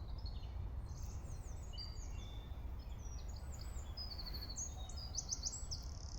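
Several songbirds singing together: many short, high chirps and rapid trills overlapping, busier toward the end, over a steady low rumble.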